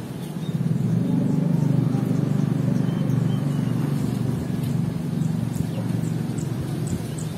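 Low rumble of a passing motor vehicle, swelling about half a second in and easing off near the end, with faint high bird chirps over it.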